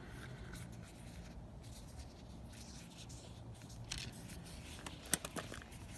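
Faint, scattered clicks and rustles of hands handling a plastic headlight wiring plug, the sharpest click about five seconds in, over a low steady hum.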